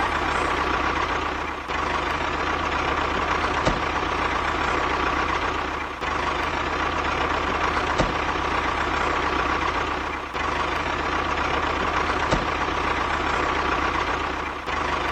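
A steady motor-like running sound with a constant whine. It dips briefly about every four seconds, and a sharp click repeats at the same spacing.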